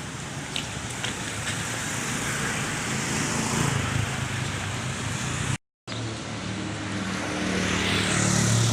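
A motor vehicle running on a nearby road, its engine and tyre noise growing louder toward the end as it approaches. The sound cuts out completely for a moment just past halfway.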